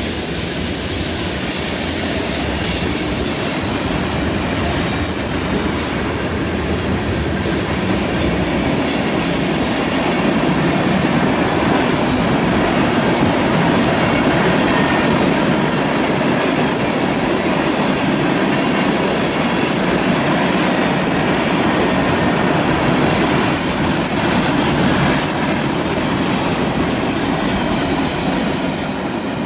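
CN freight train rolling through a curve: a steady loud rumble with high steel wheel squeal from flanges grinding on the curved rail, the squeal coming and going, with some clicking over rail joints.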